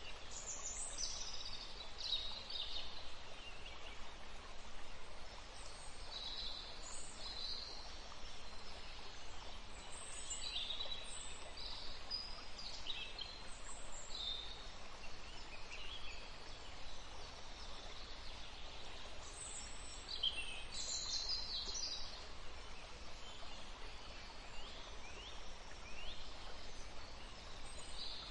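Birds chirping: many short, high chirps and calls scattered throughout, over a steady background hiss.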